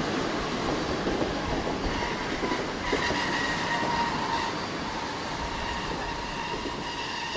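Mumbai suburban local train running into a station platform, heard from the coach doorway: a steady rumble and clatter of wheels on the rails. From about three seconds in, a thin high wheel squeal joins it as the train slows for the platform.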